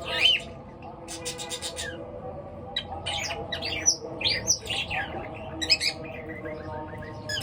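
Birds chirping and squawking in short rising and falling calls, with a quick rattling burst about a second in.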